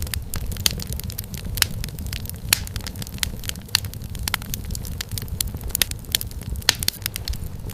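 Wood fire burning with a low steady rumble and frequent irregular pops and crackles of burning firewood.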